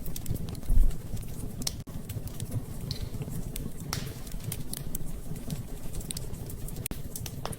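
Wood fire in a fireplace crackling, with irregular sharp pops over a low rumble of the flames, and a louder low thump just under a second in.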